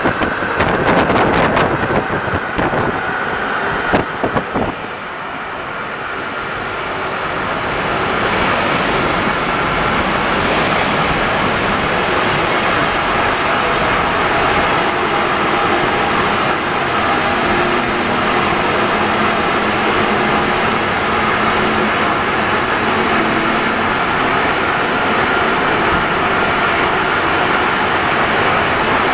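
Rubber-tyred Alstom NS-74 metro train running: some clicks and knocks in the first few seconds, then the noise swells over a few seconds and holds as a steady rush with a faint whine on top.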